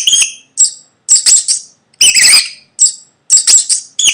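Mouse squeaking: short, high-pitched chirping squeaks in quick clusters, repeated about every half second.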